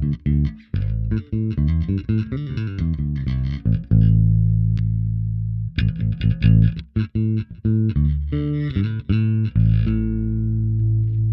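Bacchus Woodline headless electric bass played through a FLAMMA FC11 envelope filter (auto-wah) pedal. A quick run of notes is followed by a held low note about four seconds in, then another fast run, and a long sustained note near the end.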